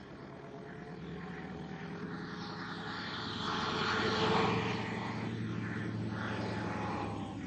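An aircraft engine droning overhead, growing louder to a peak about four seconds in and then easing off a little.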